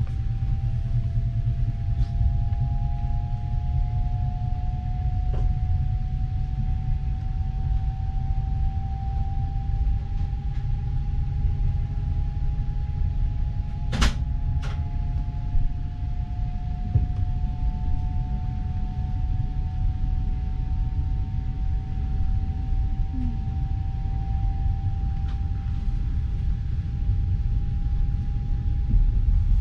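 Passenger train carriage rolling on the rails, heard inside the carriage: a steady low rumble with a faint whine that slowly rises in pitch as the train gathers speed after departure. Two sharp knocks come close together near the middle.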